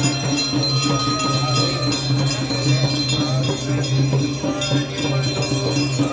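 Many brass hand bells ringing continuously and densely during the Ganga Aarti, over a steady low hum.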